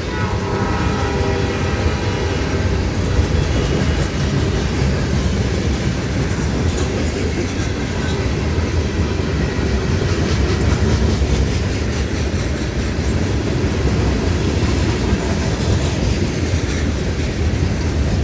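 Train passing close by: a steady heavy rumble of rail cars with wheels clattering over the rail joints. The tail of a horn blast fades out about a second in.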